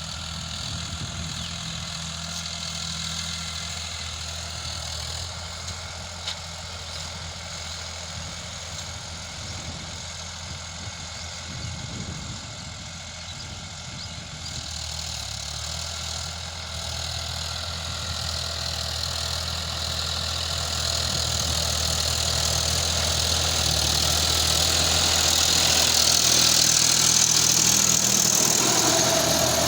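Sonalika RX 50 tractor's diesel engine running steadily at a low idle, growing louder over the last third.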